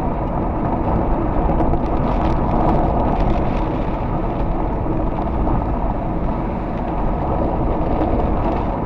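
Steady rumble of road and wind noise heard from inside a moving car.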